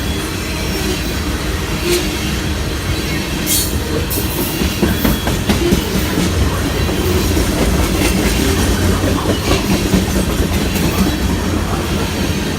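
Train rolling past on the rails: a steady low rumble with irregular sharp clicks of wheels over rail joints.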